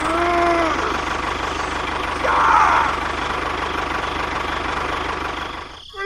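Tractor engine running steadily with a low, even throb, fading out just before the end. A short pitched sound rises and falls in the first second.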